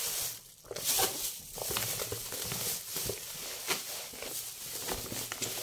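Plastic grocery bags and meat packaging rustling and crinkling as they are handled, in irregular short crackles.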